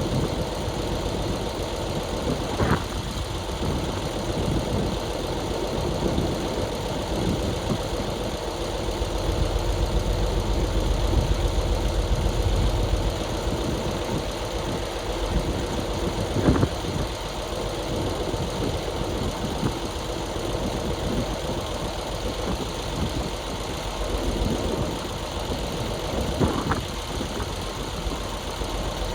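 Dump truck's diesel engine running steadily at low revs, swelling slightly about ten seconds in, with three brief sharp knocks spread through it.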